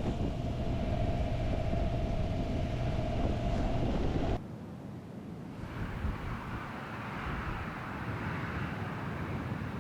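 Strong wind buffeting the microphone with a steady whistle in it, cutting off about four seconds in to a quieter, even rushing hiss.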